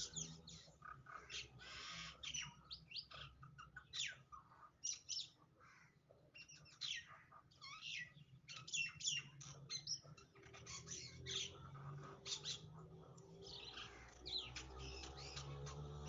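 Small birds chirping in quick, irregular calls over a low steady hum.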